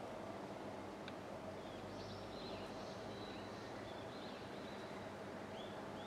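Faint, high-pitched bird chirps and short sliding calls, clustered from about two seconds in, over a steady outdoor background hum.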